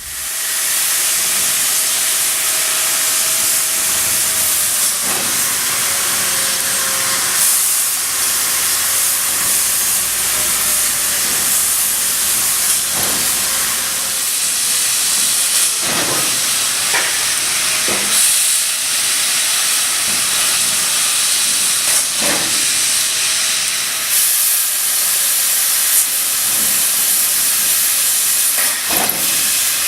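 Amada FO3015 4 kW CNC laser cutter running, with a steady loud hiss of gas through the cutting head. A faint steady tone sits under it, and short sharp ticks come now and then.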